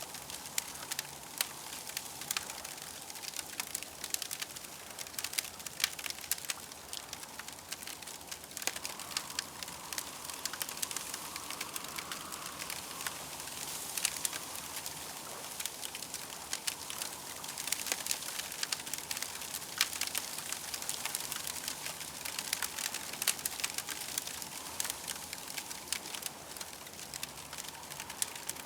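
Campfire crackling: a dense, irregular run of small pops and snaps over a steady hiss.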